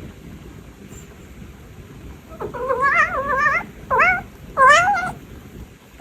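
Domestic cat meowing three times in a row, the first call long and wavering in pitch, the next two shorter.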